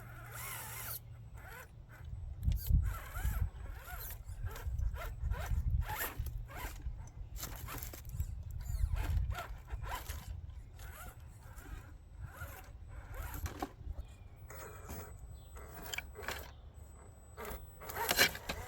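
Small RC rock crawler creeping over rough ground, with irregular short scrapes and crunches from its tyres and chassis against rock and gravel over a low rumble.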